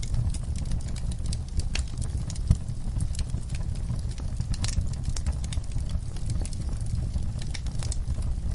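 Fire in a fireplace crackling: a steady low rumble of burning with irregular sharp pops and snaps, one louder pop about two and a half seconds in.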